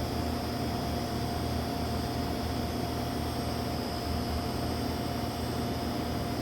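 Harbor Breeze Classic Style 52-inch ceiling fan running steadily on medium speed: an even rush of moving air with a steady motor hum. The fan has a weak run capacitor, which the owner calls a bad capacitor.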